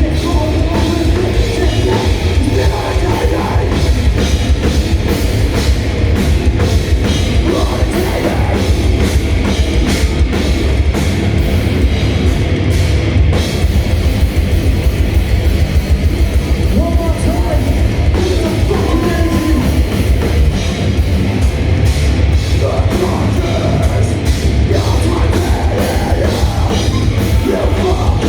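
Live heavy rock band playing at full volume, the drum kit driving it with fast, dense strokes under the rest of the band.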